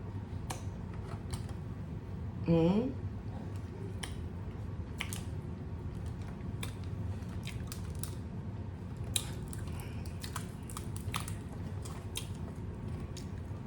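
Scattered small clicks and snaps of food and packaging being handled, over a steady low hum from a room air conditioner. A short voiced hum comes about two and a half seconds in.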